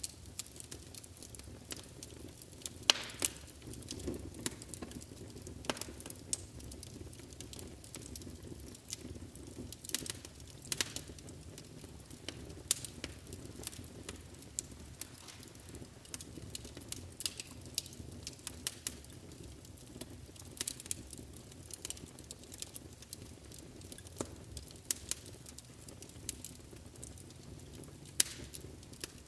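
Wood fire burning in a fireplace: a low steady rumble of the flames under irregular sharp crackles and pops, a few of them louder.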